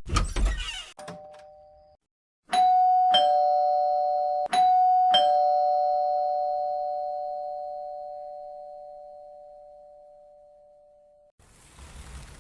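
Two-tone doorbell chime rung twice, ding-dong, ding-dong, each stroke a higher then a lower ringing tone, the last one fading out slowly over several seconds.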